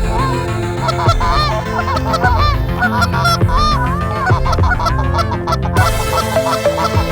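Canada geese honking, many short overlapping calls, over electronic background music with a steady beat. The honking dies away near the end.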